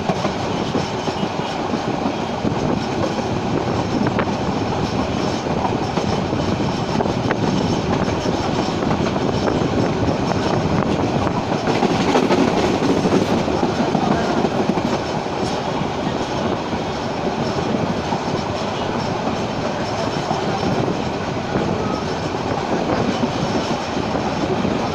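Passenger train running along the track, heard from aboard: steady noise of wheels on rails and the moving carriage, getting a little louder about twelve seconds in.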